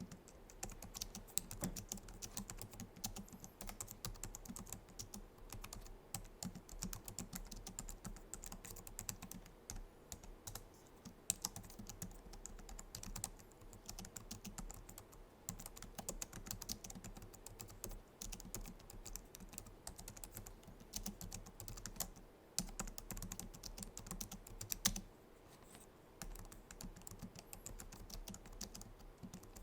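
Continuous typing on a Logitech MX Keys low-profile scissor-switch keyboard: a dense, quick run of soft key clicks with a few louder keystrokes and a couple of short pauses in the last third.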